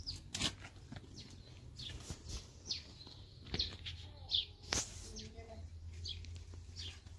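Small birds chirping, a string of short, high chirps that each drop in pitch, repeating every half second or so, with a few sharp clicks among them.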